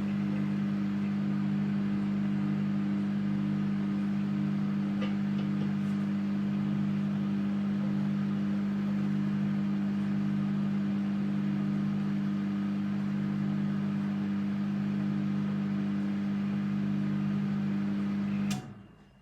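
Russell Hobbs 700 W microwave oven running, a steady low hum with fan hiss. It cuts off abruptly with a click near the end as it stops.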